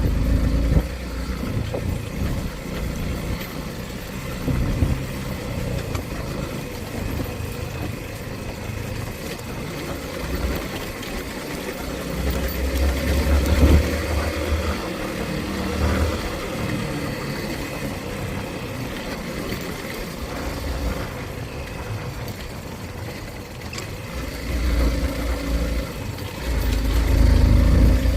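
Motorcycle engine running steadily while riding, with heavier low rumbling about halfway through and again near the end.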